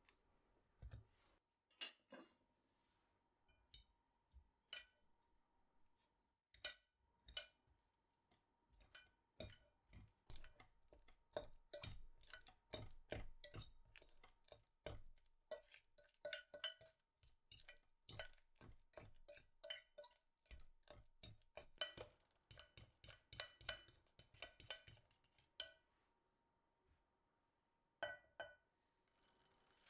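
Kitchenware being handled: quick clinks and knocks of dishes, glass and utensils being picked up and set down, coming thick and fast through the middle with short pauses near the end. A faint steady tone runs underneath.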